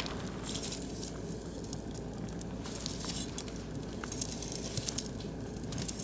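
Oak and beech wood fire crackling in a barbecue grill: scattered sharp pops and ticks over a steady low rumble, the pops coming more often near the end.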